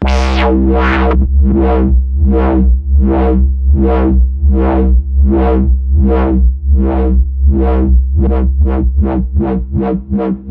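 Synthesizer bass patch in Arturia Pigments, built from an FM bass sample, holding a low note while an LFO sweeps its filter open and shut in a rhythmic wobble. The wobble runs at about one sweep every 0.7 s, then quickens to about three a second near the end.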